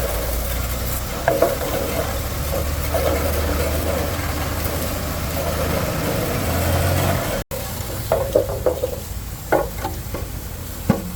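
A motor running steadily with a low hum. It breaks off suddenly about two-thirds of the way in, followed by several short metallic clicks and clinks of hand work.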